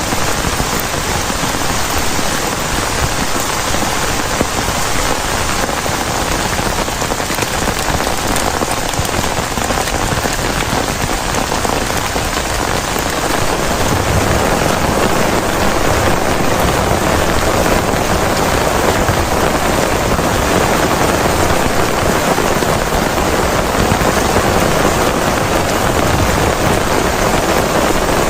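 Heavy rain falling steadily onto a plastic tarp shelter, getting a little heavier about halfway through.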